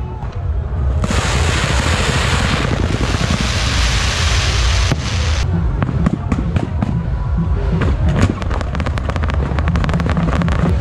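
Aerial fireworks going off close by: a dense steady hiss for about four seconds starting about a second in, then a rapid run of cracks and pops over a deep rumble of bursting shells.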